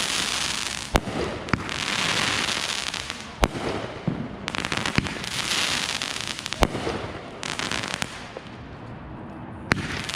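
Fireworks going off: sharp bangs every second or so over a continuous crackling hiss.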